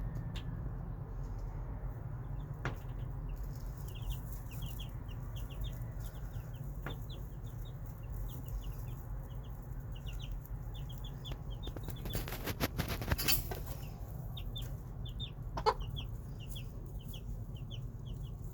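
Young chicks peeping in many short, high cheeps over a steady low rumble, with a few sharp clicks and a brief rustling burst about two-thirds of the way through.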